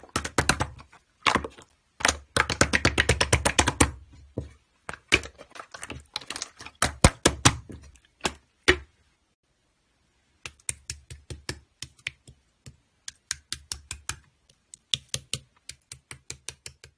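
Slime being pressed and squished, giving runs of quick sharp clicks and pops with a short pause about two-thirds of the way in.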